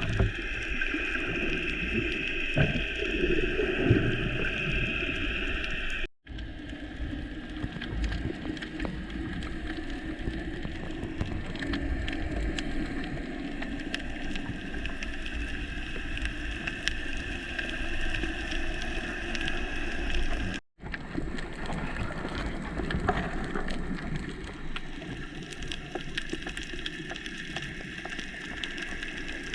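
Underwater ambience picked up by a diver's camera: a steady watery hiss full of fine crackling clicks. It briefly cuts out twice.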